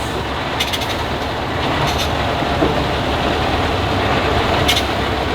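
Heavy off-road truck engine running steadily with a deep rumble, with a few short sharp clanks.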